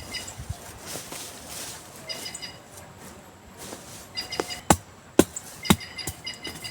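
A bird calling in short bursts of chirps, several times over. About two thirds of the way through come three sharp knocks, each about half a second apart, which are louder than the bird.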